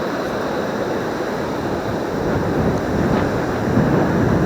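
Surf washing and wind rumbling on the microphone as a steady rushing noise, growing louder about two seconds in.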